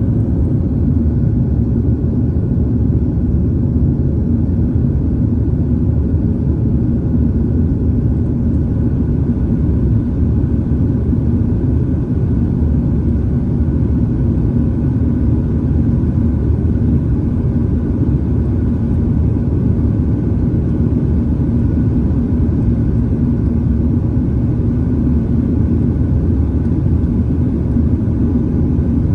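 Airliner cabin noise: the steady rumble of engines and airflow around the fuselage, with a faint constant hum and no change in pitch or level.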